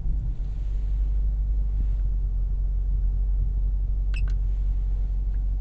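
Chevrolet SS's 6.2-litre LS3 V8 idling steadily, heard from inside the cabin, with a brief faint high click about four seconds in.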